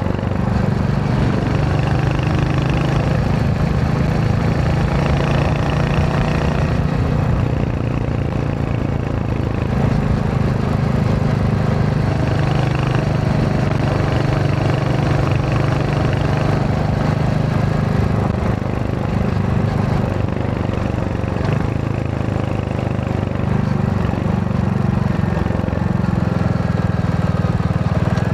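Royal Enfield Hunter 350's single-cylinder engine running steadily while riding, its note rising and falling a little with changes in speed.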